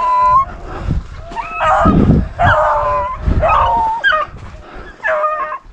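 Pack of beagles baying on a rabbit's trail, several dogs' drawn-out bawls overlapping one after another, the sound of hounds in full cry on a running rabbit. A few low rumbles come in between the calls.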